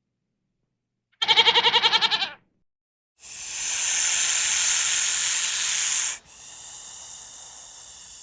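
A single wavering bleat of about a second, then after a short gap a long hiss of about three seconds that drops suddenly to a quieter, steady hiss.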